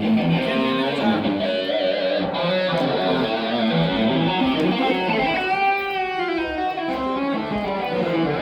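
Electric guitar played solo through an amp, a flowing run of notes with a long wavering note held with vibrato about six seconds in.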